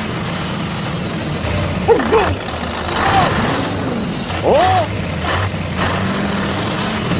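A truck engine runs steadily with a low hum. Over it come a few short squeals, each rising and falling, about two, three and four and a half seconds in.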